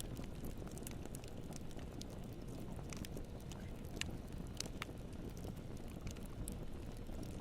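Wood campfire burning with a steady low rumble and scattered sharp crackles and pops, one louder pop about four seconds in.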